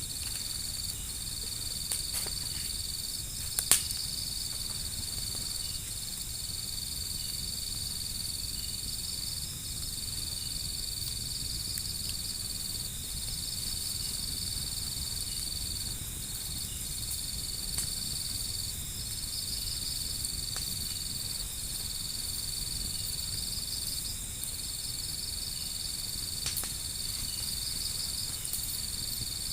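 Crickets trilling steadily in a high band, pausing briefly every few seconds, with a few sharp crackles from a burning wood fire, the loudest about four seconds in.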